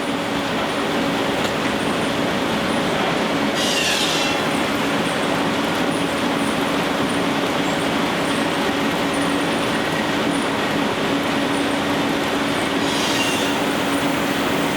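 Steam-powered sawmill machinery running: a steady mechanical din with a constant hum, and two short high hisses, about four and thirteen seconds in.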